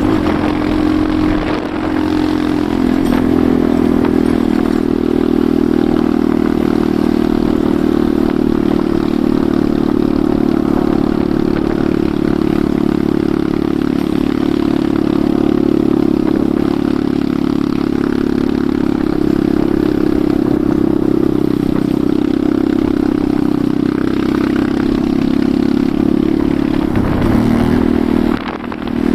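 Enduro motorcycle engine running steadily under way at an even pitch, dipping briefly near the end.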